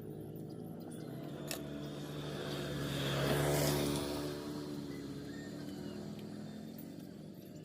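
Engine running with a steady hum that swells to its loudest about halfway through, then slowly fades.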